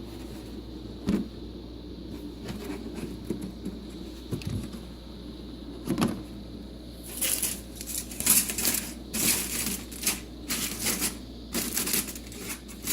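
Steady hum of the small motor unit in a homemade cooler refrigerator, the part its maker calls the compressor, running. Scattered clicks come early on, and from about seven seconds in there is a busy run of clicking and rattling.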